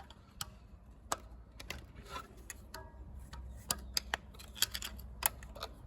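Irregular small metallic clicks and taps of a screwdriver working against the parts of a tractor's diesel injection pump, trying to free a stuck valve.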